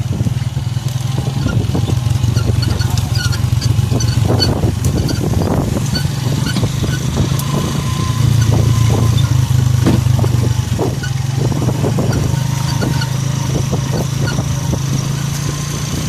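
Motorcycle engine running steadily during a ride, heard from on the bike. Scattered short knocks and gusts of noise come through, most of them in the middle stretch.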